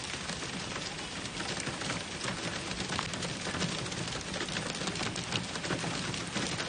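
Heavy rain falling hard, a dense steady patter of drops hitting surfaces.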